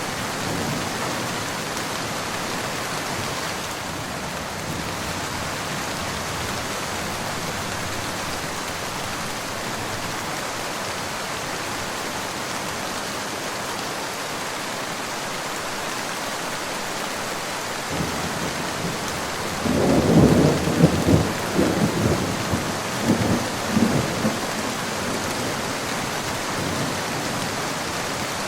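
Steady rain falling, with a rolling crackle of thunder near the end.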